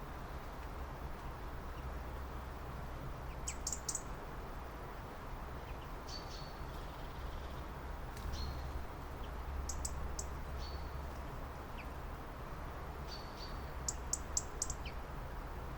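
Small birds chirping: short high notes, some in quick runs of three or four, a few times over the stretch, over a steady low rumble.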